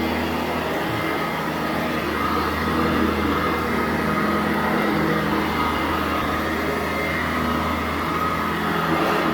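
Sanitaire SC899 commercial upright vacuum running steadily over carpet, a constant motor hum with a few held tones.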